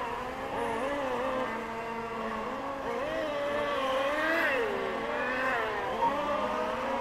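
Several radio-controlled model race cars lapping a track, their motors whining and gliding up and down in pitch as they accelerate and brake. A short electronic beep sounds about six seconds in.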